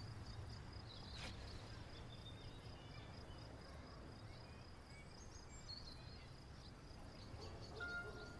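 Faint outdoor ambience: a steady, high insect trill over a low rumble, with small high chirps. Soft music comes in near the end.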